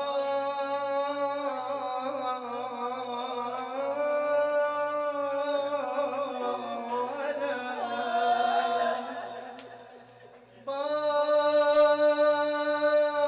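Male voices chanting a shour latmiyya (Shia mourning chant) in a long, drawn-out melody of held notes over a steady low beat. The chant fades away about ten seconds in, then comes back suddenly and louder.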